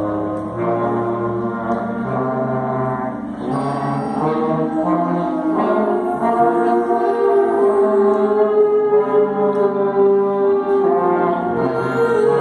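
Middle school band playing a slow piece in held brass chords, with a long sustained note through the second half.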